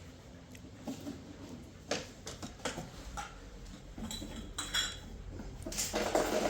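Dishes and cutlery being handled: scattered, irregular clinks and knocks that grow busier and louder near the end.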